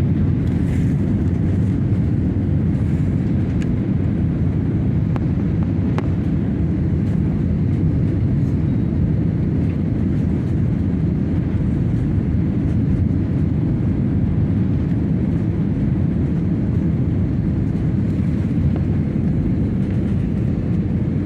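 Steady low rumble of an airliner's jet engines and rushing air, heard from inside the passenger cabin.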